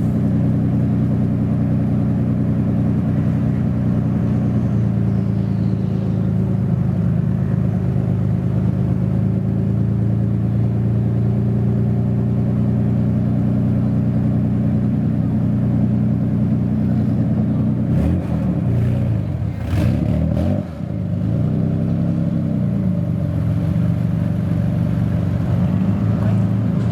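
Modified Japanese car engine idling steadily, then revved several times from about two-thirds of the way in, its pitch rising and falling with each rev.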